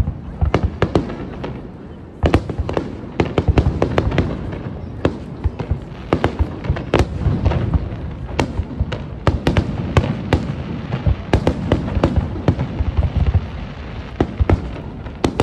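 Aerial fireworks bursting in a rapid, irregular barrage: many sharp bangs and crackles over a low rumble, with a short lull about two seconds in.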